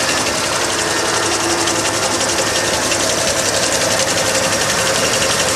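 Ford 300 cubic-inch straight-six idling with a steady, fast mechanical chatter and a faint whine from the accessory drive. The noise comes from worn belts, with a worn-out power steering pump also on the engine.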